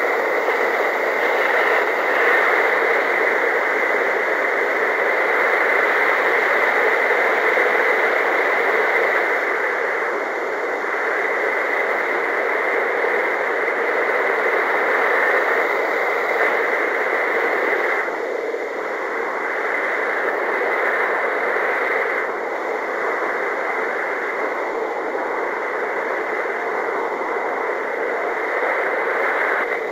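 Steady rushing noise of air over the microphone in paramotor flight, loud and even, easing slightly a few times.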